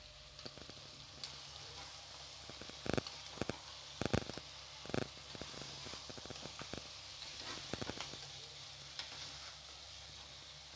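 Chicken pieces with tomatoes and fresh fenugreek and mint leaves sizzling in a pan while a steel spatula stirs them. Sharp clacks and scrapes of the spatula against the pan are loudest from about three to five seconds in, with a few more near eight seconds.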